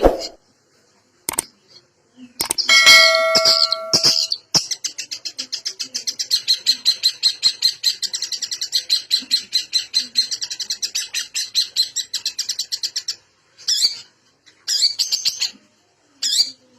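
Long-tailed shrike (cendet) in full song, packed with varied notes. A short burst of mixed notes is followed by a long, fast run of rapidly repeated high notes lasting about eight seconds, then a few short separate phrases near the end.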